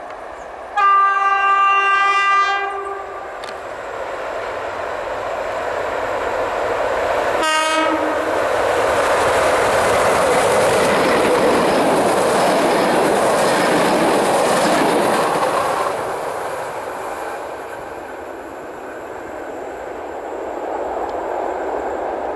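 Locomotive horn sounding one long blast of about two seconds, then a second very short blast as the locomotive reaches the camera. Then the steady noise of a passenger train's locomotive and coaches passing close by on the rails, fading away after about sixteen seconds.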